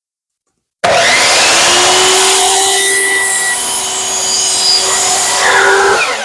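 Electric power saw running loud at full speed and cutting into wood, starting abruptly about a second in. Near the end it is switched off and its pitch falls as the blade winds down.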